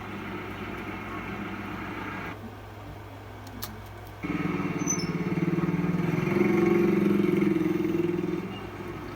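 2015 Toyota Innova's 2.5-litre diesel engine revved: from about four seconds in it gets suddenly louder, climbs a little in pitch, and drops back to idle near the end.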